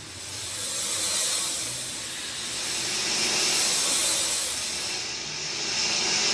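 Steady rain falling, a dense hiss that swells and eases over a few seconds.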